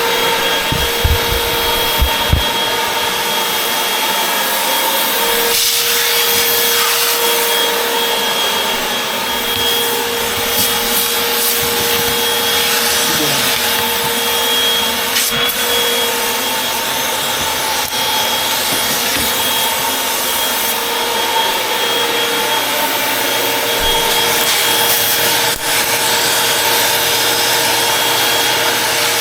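Upright vacuum cleaner running steadily, its motor whine holding constant over the scraping noise of the cleaner working across the floor.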